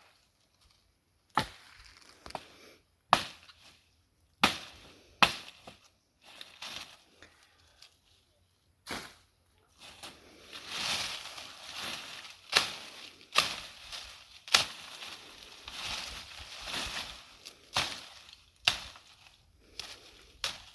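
Sharp knocks or strikes at irregular intervals, roughly one every second or two, with a stretch of dense dry rustling in the middle.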